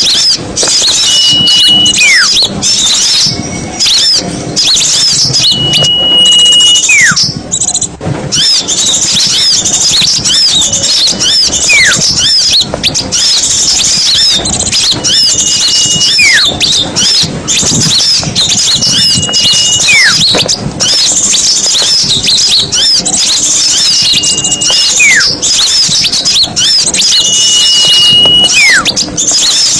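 A dense flock of small birds chattering and twittering in high, busy calls. About every four seconds the same motif comes round: a short steady whistle, then a whistle falling in pitch. This is a looped bird-lure recording, a mix of small-bird calls played to draw small birds in for catching.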